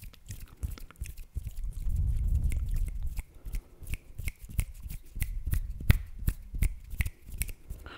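Close-miked chewing of an empanada, with many sharp wet mouth clicks and smacks, thickest in the second half.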